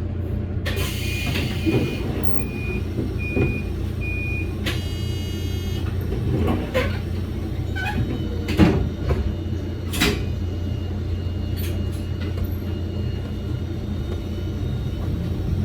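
Toyama Chiho Railway electric train with a steady low hum. A high electronic beep sounds about five times in a row early on, then a pitched chime lasts about a second, followed by scattered clicks and knocks.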